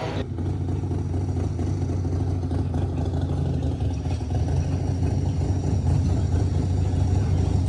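An engine running steadily with a low rumble, growing a little louder towards the end.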